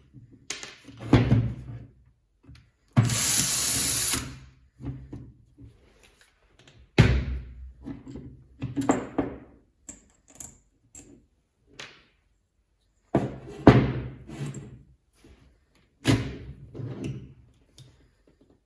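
A power-tool motor runs in one short burst of a little over a second, then a series of sharp knocks and clacks, with short ringing tails, from hard tool parts being handled and set down.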